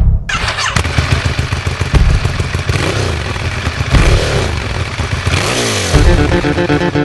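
Sport motorcycle engine running hard at high revs, starting suddenly, its pitch rising and falling as the throttle works, then dropping away near the end.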